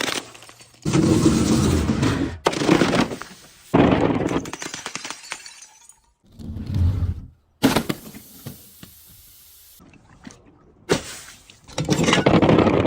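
Glass and other brittle objects being crushed: dense crunching and shattering in several short bursts of a second or two each. The bursts start and stop abruptly.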